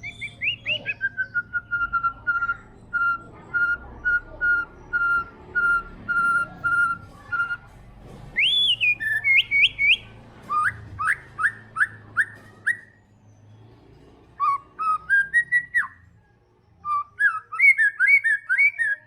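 White-rumped shama singing: a run of about a dozen evenly spaced whistled notes on one pitch, then rapid rising and falling whistled phrases separated by short pauses.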